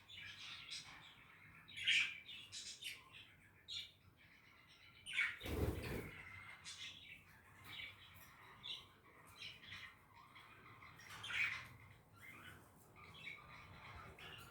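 Budgerigars chattering in quick, irregular chirps and squawks. About five seconds in there is a louder, noisier sound lasting about a second.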